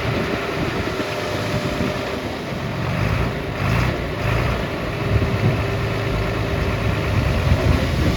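Heavy earth-moving machinery's diesel engine running steadily.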